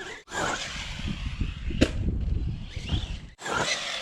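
Electric RC buggy running hard over concrete, with a sharp knock of an impact or landing about two seconds in. The sound cuts out abruptly shortly after the start and again near the end.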